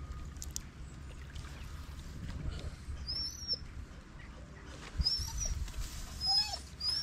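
A small bird chirping several times, short high up-and-down notes from about three seconds in, over a low steady rumble, with a thump about five seconds in.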